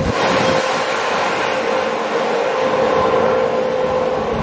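Electric express passenger train running past on the main line: a steady rush of wheel and air noise with a steady hum.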